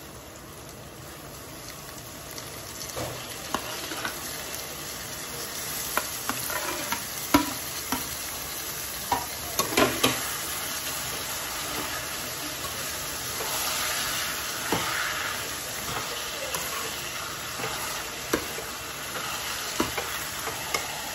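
Chopped tomatoes and browned onions sizzling as they fry in a metal kadai, the sizzle building over the first few seconds. A steel ladle stirs them, knocking and clicking against the pan again and again.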